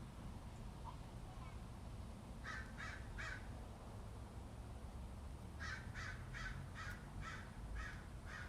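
A bird cawing: three harsh caws about two and a half seconds in, then a longer run of about eight more, evenly spaced, from a little past halfway, over a low steady background rumble.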